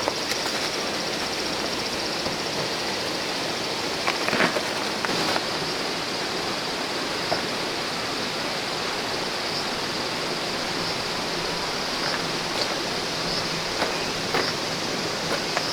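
Clear stream flowing: a steady rushing, with a few light knocks scattered through it.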